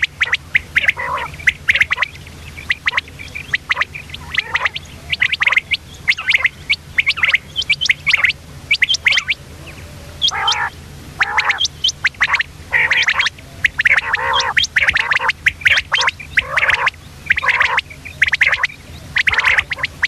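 Female common quail calling: many short, sharp calls in an irregular run, some coming in quick clusters, over a faint steady low hum.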